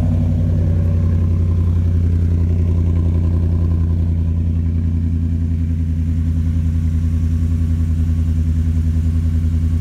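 2018 Ford F-150 pickup's engine with an aftermarket exhaust system, idling steadily just after being started, with a strong low exhaust note and an even pulse.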